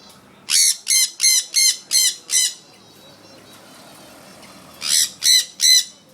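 African grey parrot squawking: a run of six short, harsh calls at about three a second, then after a pause three more.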